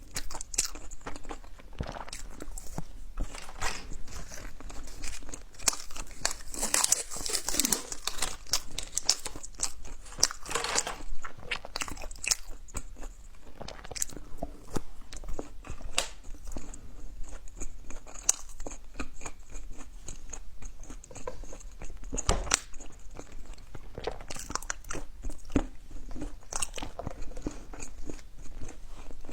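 Close-miked eating: crunchy bites and chewing with irregular crackly clicks, busiest around a quarter and a third of the way through.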